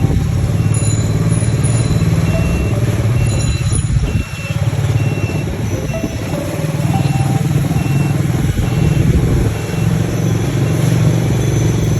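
Mouser 125cc ATV quad bike's engine running under way, easing off briefly about four seconds in, with a row of short high beeps repeating about every two-thirds of a second, like a reversing alarm.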